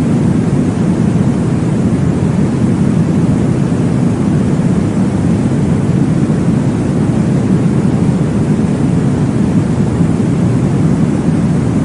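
Steady, deep, muffled rushing noise of a recorded womb sound used to soothe babies to sleep, like blood flow heard from inside the uterus, with no clear beat.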